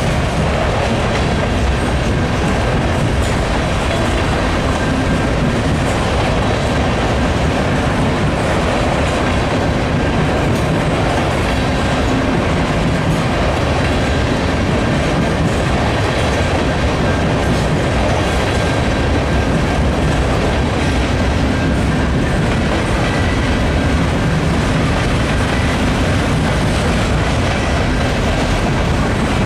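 Empty covered hopper cars of a Norfolk Southern grain train rolling past, their wheels running steadily on the rails.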